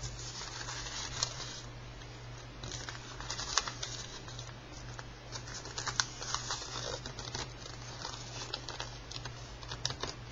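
A sheet of paper being folded in half lengthways and creased by hand: irregular crackles and sharp little ticks, over a steady low hum.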